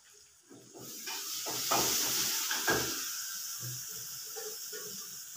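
Food sizzling in hot oil in a wok on a gas stove: the hiss builds about a second in, then slowly fades. A few knocks of a utensil against the pan sound under it.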